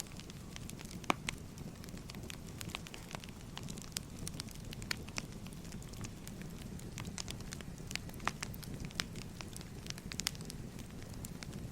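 Wood fire crackling: irregular sharp pops and snaps, a few louder than the rest, over a low steady rumble of burning logs.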